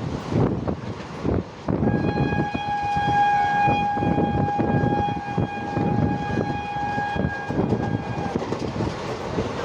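A train horn sounds one long steady blast lasting about six and a half seconds, starting about two seconds in, over the continuous rumble and clatter of a moving train.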